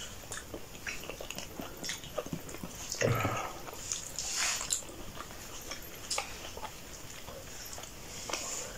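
A person biting and chewing a mouthful of food close to the microphone, heard as a run of small, irregular mouth clicks.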